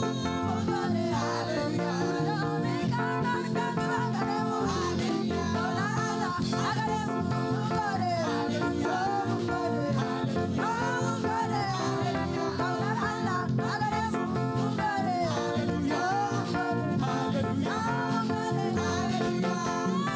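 Church praise music: voices singing over a band with guitar and bass, continuous and steady in level.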